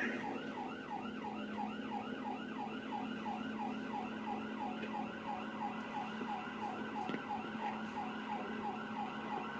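Police cruiser siren in fast yelp mode: a quick rising-and-falling wail repeating a few times a second, over a steady low hum of the running vehicle.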